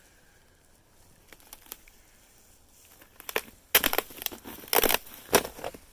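Footsteps crunching in snow: quiet for the first few seconds, then a series of loud crunching steps about every half second near the end.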